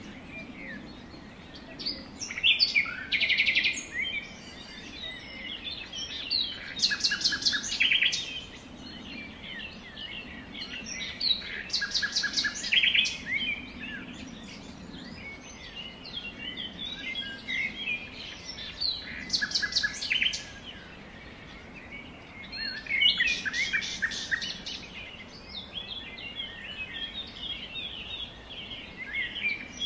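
Songbirds singing: short bursts of fast trilled notes every few seconds, with softer chirps between.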